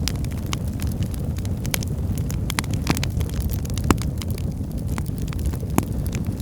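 Firewood burning in a fireplace: a steady low rumble of flames with frequent small crackles and sharp pops from the logs, the loudest pops about four and six seconds in.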